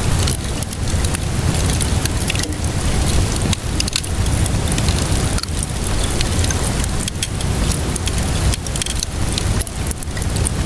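Wood fire crackling with frequent sharp pops over steady rainfall, with a constant low rumble underneath.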